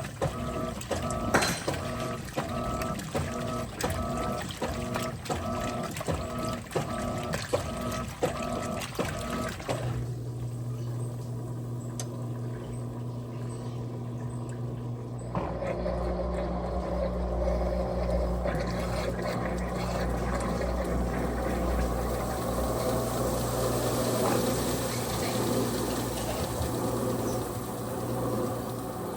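Electrolux top-loading agitator washing machine running: for about ten seconds the agitator works back and forth in a regular rhythm, about three strokes every two seconds, each with a short motor whine. Then it changes to a steady motor hum with running water, which grows into a louder low rumble about halfway through.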